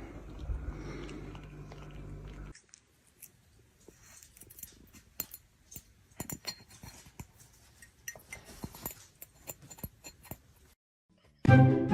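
A steady low hum, then after a cut a quiet run of irregular sharp clicks and crunches, with music starting near the end.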